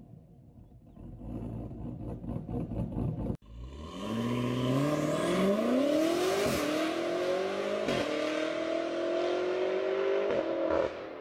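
A car engine and exhaust rumbling with rapid, uneven pulses. After a cut, a car accelerates hard: its engine note climbs steadily and breaks off briefly three times as it shifts up through the gears.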